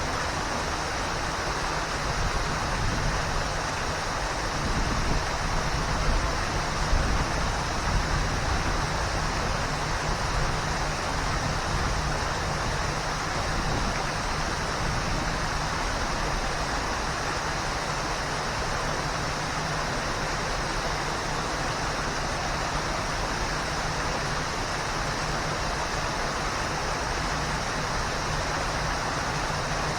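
Waterfall: water falling and rushing in a steady, dense roar of white noise, with a few louder low swells in the first eight seconds.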